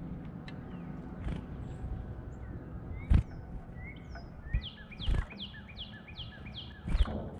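Songbird calls: scattered chirps, then a rapid run of about eight down-slurred whistled notes near the end, several a second. Four sharp knocks about two seconds apart cut in among them.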